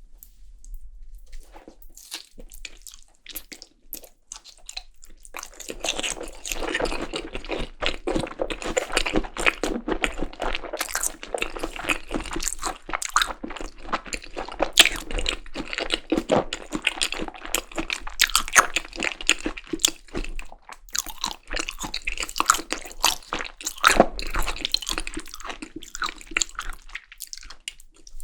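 Close-miked chewing of Korean seasoned raw beef tartare (yukhoe), with many quick wet clicks and smacks. Sparse for the first few seconds, then dense and continuous from about five seconds in.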